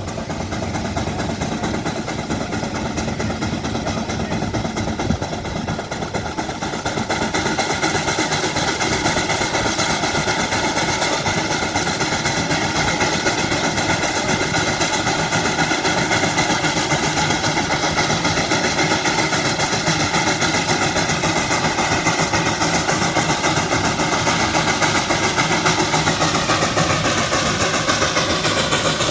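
Russell steam traction engine running on a Prony brake, working steadily under load. It gets louder about seven seconds in and then holds steady.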